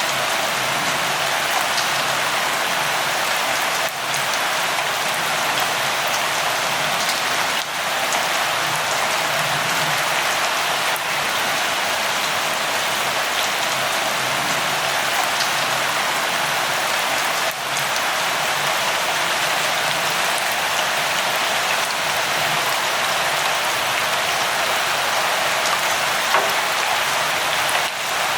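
Steady light rain falling: an even hiss, with now and then a single drop ticking a little louder.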